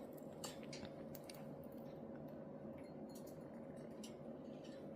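A budgie pecking and nibbling at edible flowers and seeds in its dish: scattered faint ticks and taps of its beak, over a steady low hum.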